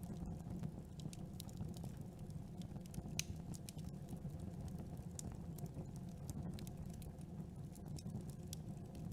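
Campfire burning: wood crackling with scattered sharp pops over a steady low rumble of the flames. The loudest pop comes about three seconds in.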